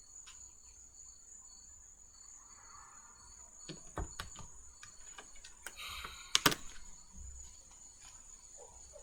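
Tarot cards being handled: a few light taps, a short rustle of shuffling, and two sharp slaps of cards about six and a half seconds in. A steady high-pitched trill runs underneath.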